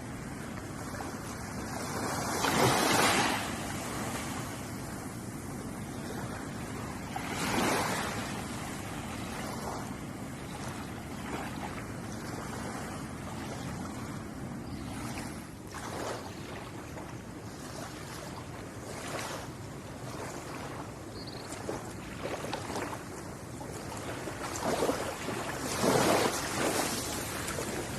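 Ocean waves washing onto a shore. A steady rush of surf swells into louder breaks about three seconds in, again a few seconds later, and twice near the end.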